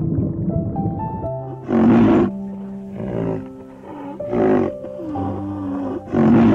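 Soft background music with held notes, over which an animal calls four times in short, rough bursts, the loudest about two seconds in and at the very end.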